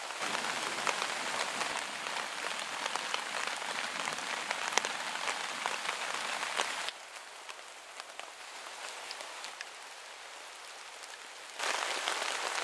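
Heavy rain drumming on a tarp shelter overhead, with single drops striking as sharp ticks. The rain drops to a softer level about seven seconds in and comes back loud near the end.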